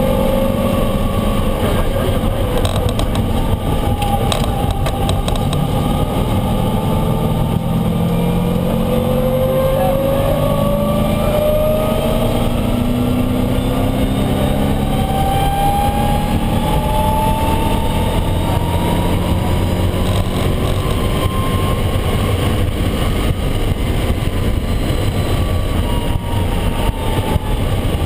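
Road-race Ford Mustang's V8 at full throttle on track, its pitch climbing over several seconds and dropping back at each shift, again and again, as the car pulls through the gears.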